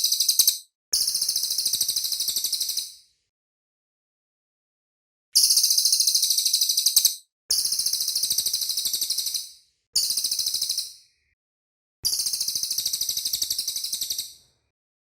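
Cililin bird song: a string of very rapid, high-pitched trills, each phrase lasting about one to two seconds, separated by short silent pauses.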